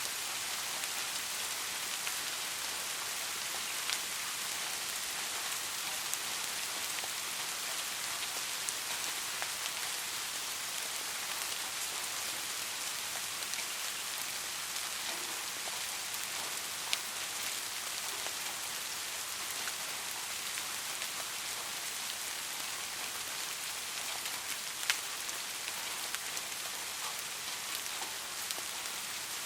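Steady rain falling, an even hiss with a few sharper single drop ticks, three of them standing out.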